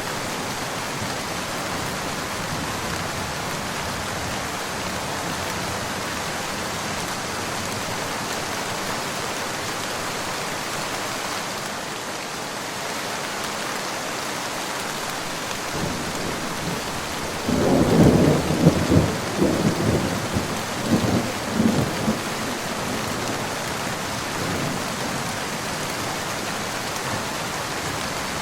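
Steady rain falling, with a clap of thunder about two-thirds of the way through that rumbles in several rolling peaks for about four seconds before the rain alone continues.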